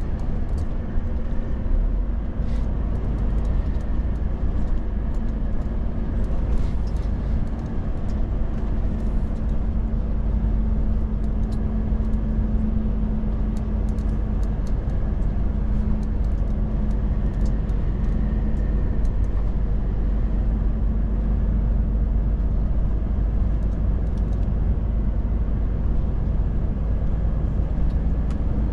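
Volvo FH truck under way: the steady low drone of its diesel engine and road rumble, with a constant hum.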